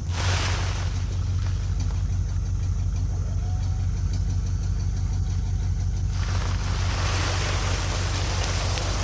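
An engine idling steadily with a low hum. A broad rushing hiss swells briefly at the start and comes back from about six seconds in, running over the engine.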